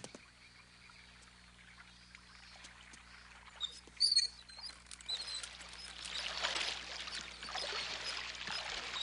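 Cartoon water sound effect: splashing and churning that starts small after a near-silent stretch and grows steadily louder over the last few seconds. A couple of brief splashes come about four seconds in.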